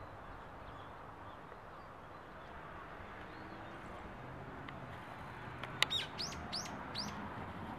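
A bird calling near the end: a quick run of five or so sharp chirps, each falling in pitch, over a faint steady outdoor background.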